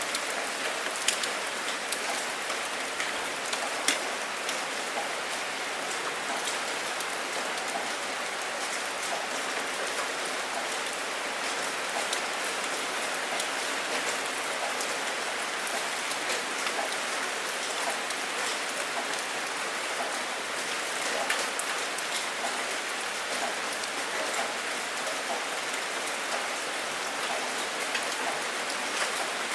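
Steady heavy rain falling and splashing on a hard surface, a dense even hiss dotted with the ticks of individual drops.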